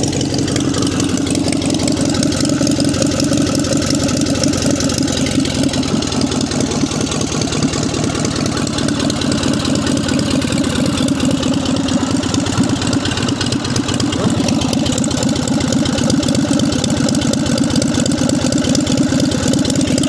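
1946 ex-army JAP 55 single-cylinder stationary petrol engine running steadily at idle after being hand-started.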